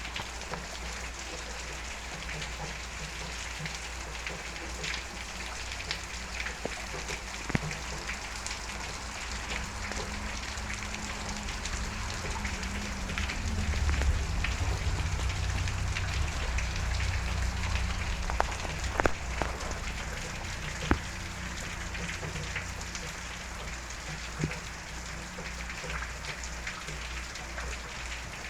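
Steady heavy rain falling on surfaces, with scattered sharp drip hits. A low rumble swells up around the middle and fades again.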